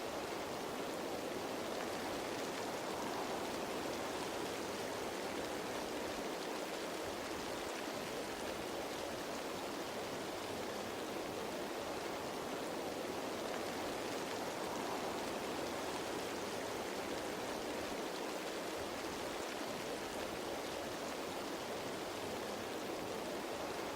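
Rain falling on leaves, a dense, steady hiss with no separate drops standing out.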